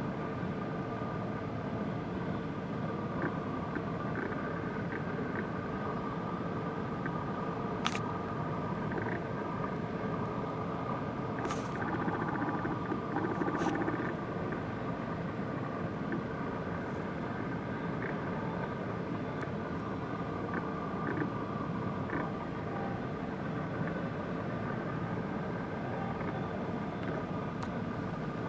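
Steady mechanical engine hum over a haze of outdoor noise, with a few sharp clicks in the middle.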